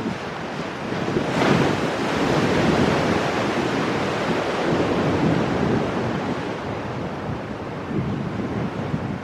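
Ocean surf breaking on rocks: a wave crashes about a second and a half in and the wash rushes on, slowly easing off toward the end.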